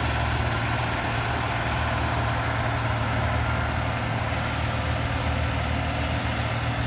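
Caterpillar 140G motor grader's diesel engine running steadily with a low, even hum.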